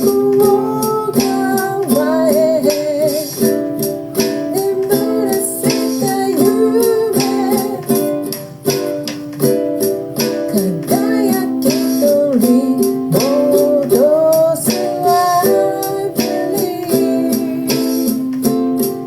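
Ukulele strummed in a steady rhythm through a chord progression, with a voice singing a wavering melody over it.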